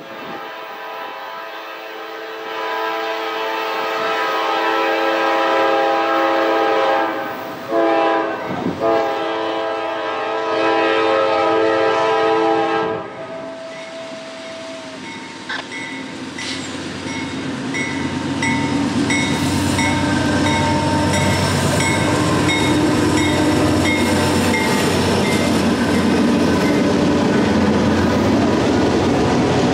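Diesel freight locomotive's air horn blowing long blasts as the train approaches, broken briefly about eight seconds in and stopping near the middle. The locomotives and then autorack freight cars roll past, the rumble building into a steady clatter of wheels over the rail joints.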